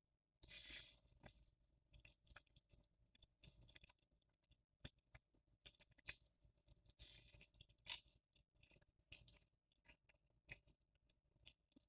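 A person eating Buldak spicy ramen noodles up close: soft chewing with many small wet mouth clicks, and a couple of louder hissing intakes, one about half a second in and one about seven seconds in.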